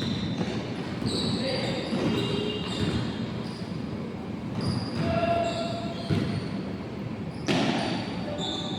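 Indoor basketball game: a ball bouncing on the court with thuds, many short high squeaks scattered throughout, and players' voices in the background.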